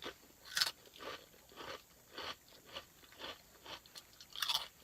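Close-up chewing of a crunchy snack, with rhythmic crunches about twice a second and a louder crunch near the end.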